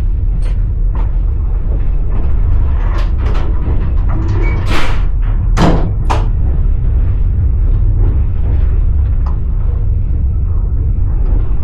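Passenger train running on the rails, heard from inside the carriage: a steady low rumble with a handful of sharp wheel clacks over rail joints, the loudest of them around the middle.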